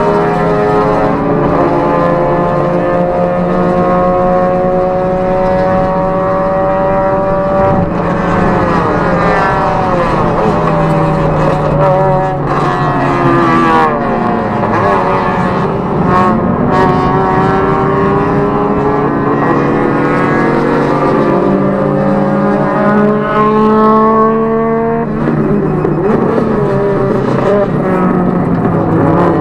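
Toyota Prius ZVW30's 1.8-litre 2ZR-FXE four-cylinder engine heard from inside the cabin under hard acceleration, its note held nearly steady and slowly climbing. Midway the pitch drops away and rises again, then settles high once more, with a further dip and climb near the end.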